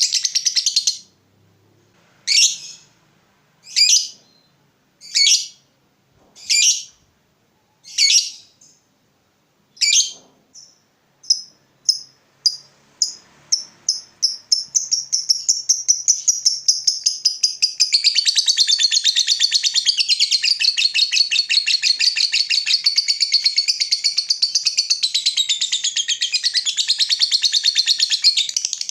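Lovebird calling: six separate loud calls about a second and a half apart, then shorter chirps coming faster and faster. From about halfway these run into a long, continuous, rapid chattering trill, the long 'ngekek' song that keepers prize.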